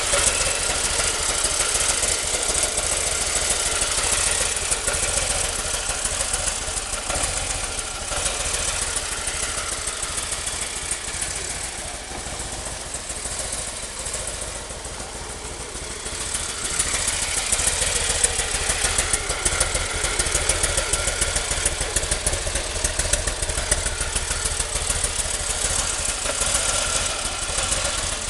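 Harley-Davidson Street Glide's 1584 cc Twin Cam 96 V-twin running at idle, a steady pulsing beat. It gets a little quieter for a few seconds about halfway through, then picks up again.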